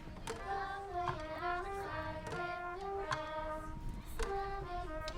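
Children singing a stepwise melody of held notes, with musical accompaniment.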